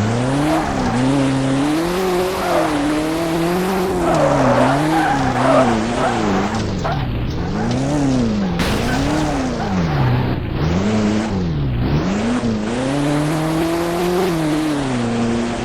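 Car engine revving up and down over and over, its pitch rising and falling about once a second, with tyre squeal and skidding noise.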